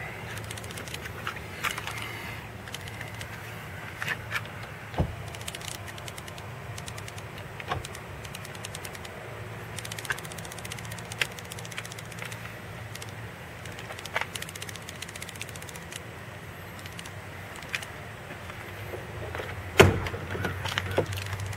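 A steady low hum, the 1998 Mercury Grand Marquis's 4.6 L V8 idling, under scattered light clicks and knocks, with one sharp thump near the end.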